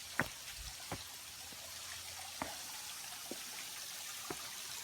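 Steady rush of a waterfall with several separate drops of water dripping.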